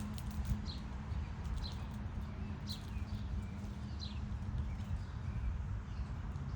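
A songbird giving short, high, down-slurred chirps, one about every second, over a steady low rumble.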